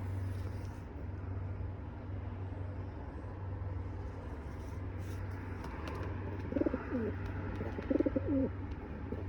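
A bird cooing: two short, low, wavering calls about two-thirds of the way through, over a steady low hum, with a few faint clicks just before.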